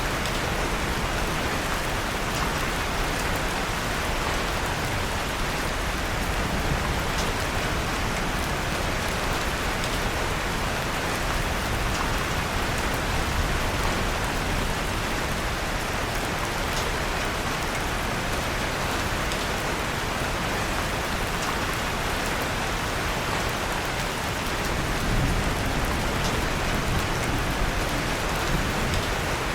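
Steady rain falling, mixed with a log fire in a fireplace giving faint scattered crackles.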